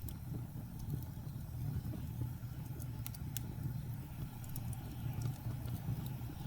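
Wood fire in a fireplace crackling, with a few sharp pops, over a steady low rumble of blizzard wind.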